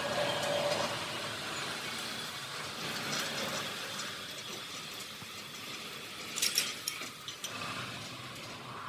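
Steady mechanical workshop noise, with a short cluster of sharp clicks about six and a half seconds in.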